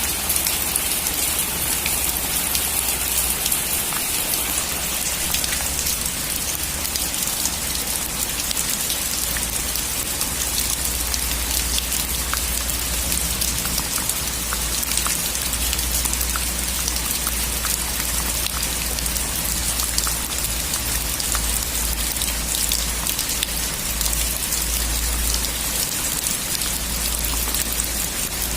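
Steady heavy rain on a metal roof: a constant hiss, with many individual drops striking sharply, over a low steady rumble.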